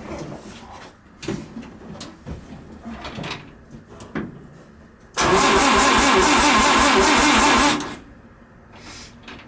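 Engine of a 1951 Commer light truck turned over on the starter for about two and a half seconds without catching, after a few scattered knocks and clunks. It is cranking after about 20 years of standing.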